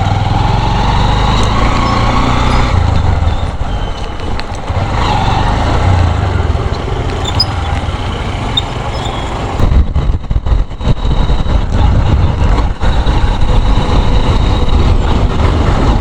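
Motorcycle riding on the road, its engine running under steady road noise. From about ten seconds in, wind buffets the microphone in heavy, choppy gusts.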